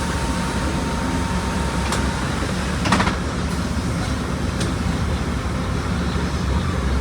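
Volkswagen Volksbus 17.230 Euro 6 bus engine running with a steady low rumble. A faint thin whine stops about two seconds in, and a short knock comes about three seconds in.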